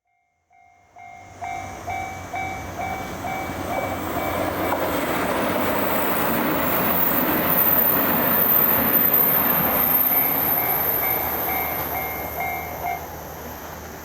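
Level crossing warning bell ringing rhythmically while a seven-car KiHa 261 series diesel limited express passes; the rush of the train's wheels and engines builds, swamps the bell in the middle, peaks and then fades as the bell is heard again near the end.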